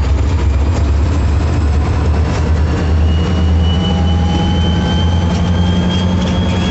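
Diesel-electric locomotives running close by with a loud, steady low engine rumble. From about three seconds in, a faint whine rises slowly in pitch over it as the units move.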